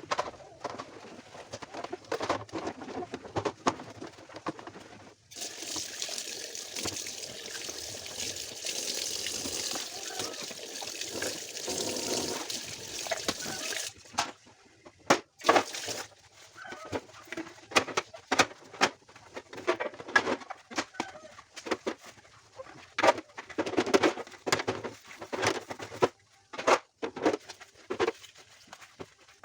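Water running steadily for about nine seconds in the middle, between scattered clicks and knocks of things being handled and washed.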